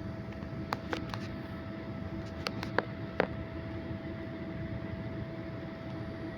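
Steady rushing noise of an airliner cabin in flight, with a constant hum running through it. A handful of sharp clicks or taps come close together in the first half.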